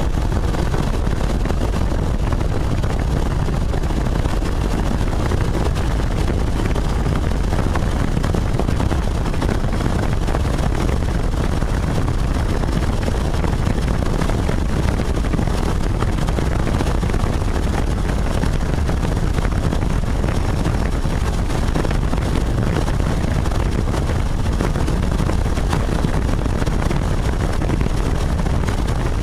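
Helicopter engine and rotor noise, steady and loud throughout.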